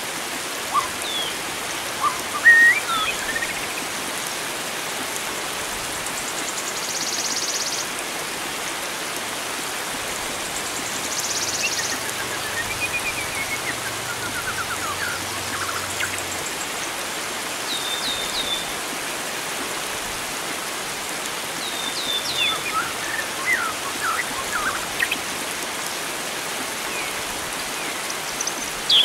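A steady rush of flowing water with wild songbirds calling over it in short, scattered chirps and whistles. There are two brief high buzzes, about seven and eleven seconds in, and several birds call together near the end.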